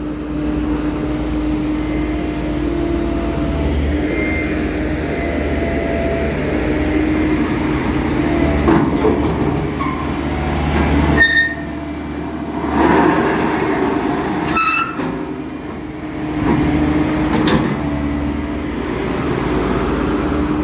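Diesel engine of a Bomag vibratory roller running steadily while the roller is manoeuvred, with short metallic squeals and clanks about 11 and 15 seconds in.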